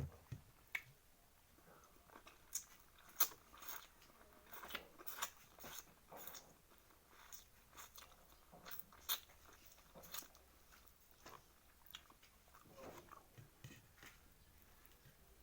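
A person chewing and biting food close to the microphone: irregular wet mouth clicks and small crunches, the loudest a little after three seconds in.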